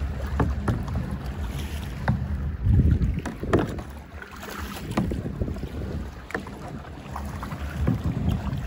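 Wind buffeting the microphone over open water, with irregular splashes and knocks of water.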